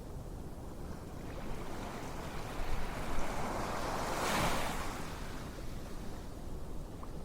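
Ocean waves washing in: a steady surf hiss, with one wave swelling to a peak about four seconds in and then falling away.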